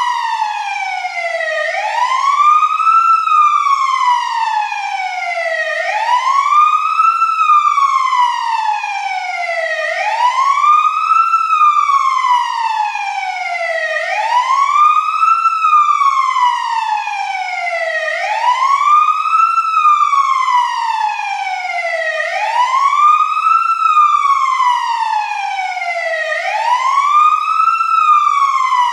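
Fire engine siren wailing: one clean tone that rises quickly and falls more slowly, repeating about every four seconds.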